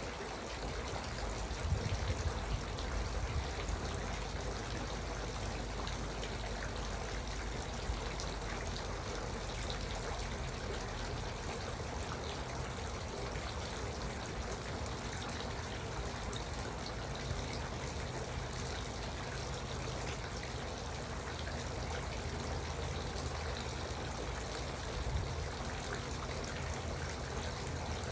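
Garden water fountain running, its water trickling and pouring steadily.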